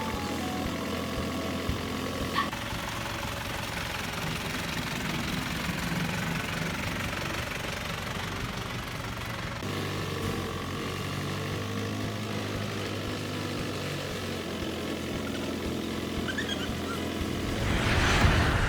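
Steady engine-like drone, an airplane sound effect for a pretend flight in a cardboard-box plane. It shifts in pitch a couple of times, and a loud whoosh swells up near the end.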